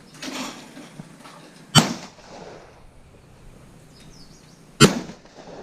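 Two shotgun shots at clay targets, about three seconds apart, each a sharp bang with a short echoing tail.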